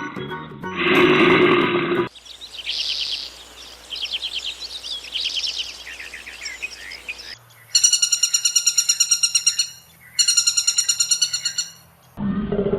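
Bird chirping and trilling for about five seconds, after a lower call in the first two seconds. Then come two long, rapidly pulsed high calls of about two seconds each, with a short break between them.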